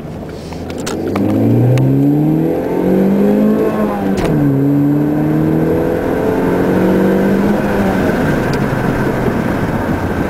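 Chevrolet Cobalt's four-cylinder engine accelerating through the gears of its manual gearbox. The revs rise, fall at an upshift about four seconds in, rise again, fall once more about eight seconds in, then hold steady. The intake has a little throat sound with a K&N drop-in air filter and the air-box resonator removed, heard through an open car window.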